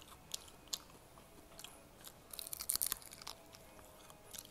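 Close-up crunching and chewing of sauced Korean fried chicken as it is bitten into, with a few sharp crunches early on and a burst of loud crunches about halfway through.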